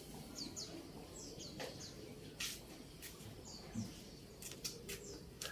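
Small birds chirping faintly with many short, quick downward-sliding notes. Several brief sharp crackles break in a handful of times.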